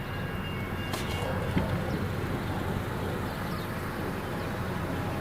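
A passing train, a steady low rumble on the rails with a couple of short clicks about a second in.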